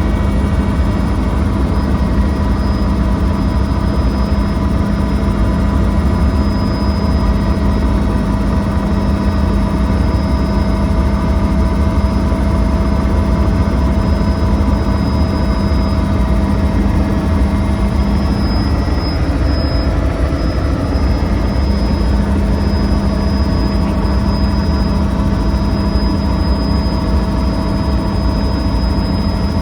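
Helicopter in flight, its engine and rotors making a loud, steady drone with a constant low hum.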